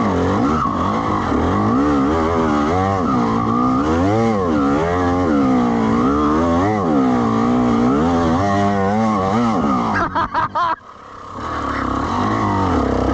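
TM EN300 two-stroke dirt bike engine working on the trail, its revs rising and falling again and again with the throttle. About ten seconds in it stutters and briefly cuts out, then picks up and revs again.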